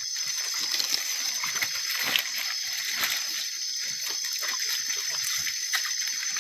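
Water splashing and sloshing in irregular small strokes, over a steady high-pitched background whine.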